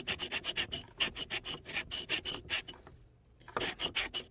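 Willard's tipper trimmer shaving the end of a cue shaft as the shaft is turned against the cutter, squaring it up for a new tip: quick repeated rasping strokes, about five a second, with a brief pause about three seconds in.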